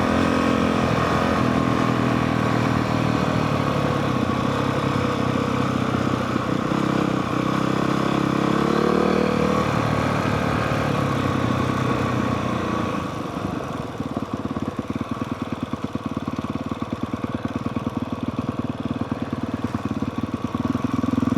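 Honda CRF450R's 450 cc single-cylinder four-stroke engine running, its pitch climbing about eight seconds in. About thirteen seconds in it drops to a quieter, rapid low putter at low revs or idle.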